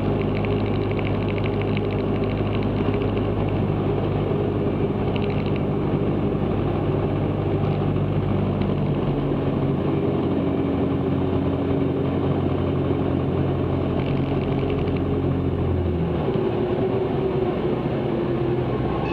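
Cessna 162 Skycatcher's four-cylinder Continental O-200 engine and propeller running steadily, heard from inside the cockpit. The engine note shifts in pitch about halfway through and again near the end.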